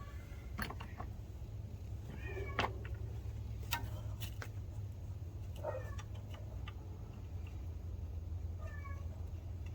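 A domestic cat meowing in short calls every few seconds, with a few sharp clicks between the calls over a steady low rumble.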